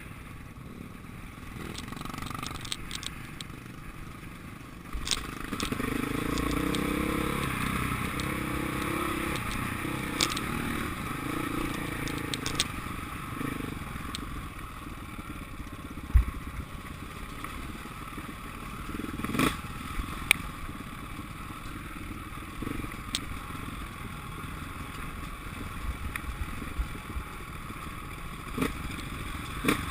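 Motocross dirt-bike engines running and changing pitch as they rev, loudest for several seconds about a third of the way in, with scattered sharp knocks and clatter.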